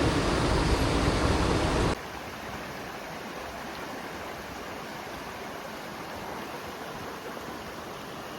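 Mountain stream water rushing steadily. It drops suddenly to a softer rush about two seconds in.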